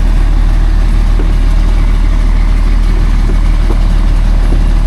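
Heavy logging truck's diesel engine running steadily, a loud, even low rumble with no change in pitch.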